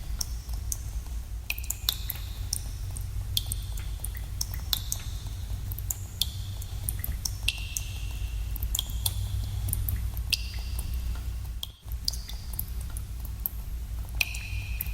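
Water drops falling into pools in a cave: irregular plinks, several a second, each with a short ringing tone, over a steady low rumble. The sound dips out briefly about twelve seconds in.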